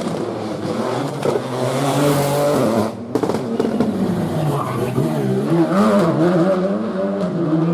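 Rally car engine revving hard, its pitch climbing and then cutting off briefly about three seconds in, like a gear change or lift, before it picks up again with revs rising and falling.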